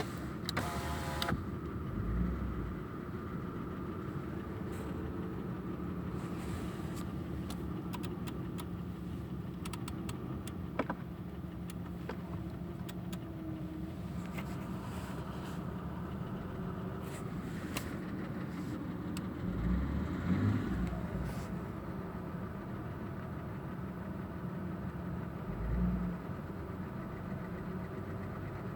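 Audi 2.8 FSI V6 engine running at idle, with a knock that the owner places in the middle of the right cylinder head. It briefly gets louder twice, once about two-thirds of the way in and once near the end.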